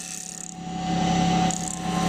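Mini benchtop CNC wood lathe running with a steady machine hum that grows louder about half a second in.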